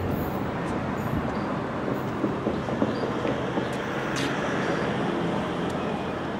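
Passenger train of Mark 3 coaches rolling away along the track: a steady rumble of wheels on rails, easing slightly near the end.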